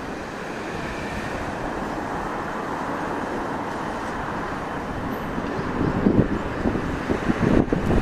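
Strong wind blowing steadily, with gusts buffeting the microphone about six and again about seven and a half seconds in.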